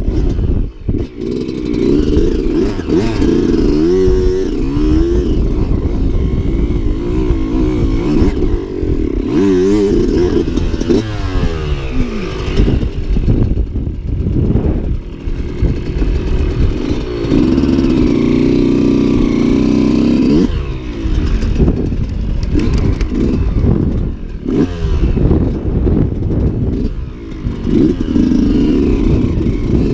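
Enduro dirt-bike engine under load, its pitch rising and falling over and over as the throttle is worked, with rattling and knocks mixed in.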